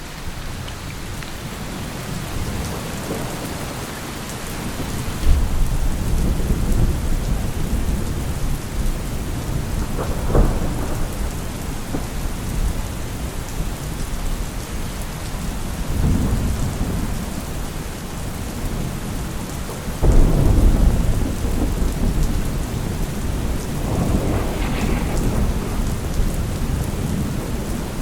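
Steady heavy rain with rolling thunder: deep rumbles swell suddenly about five seconds in and again about twenty seconds in, with smaller rolls between and near the end.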